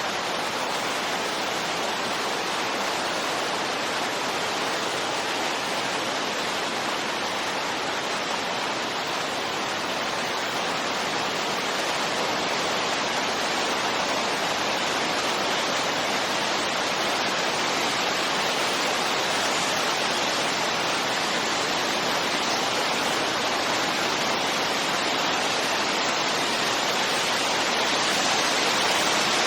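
Steady rushing wind, an even hiss with no gusts, clicks or other sounds, growing slightly louder toward the end.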